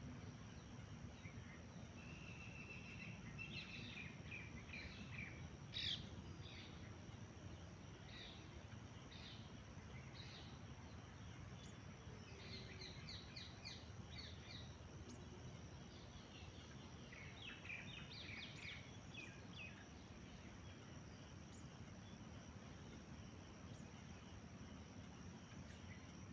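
Songbirds chirping faintly in short, quick runs of notes with pauses between them, mostly in the first two-thirds. A steady high tone and a low rumbling noise run underneath.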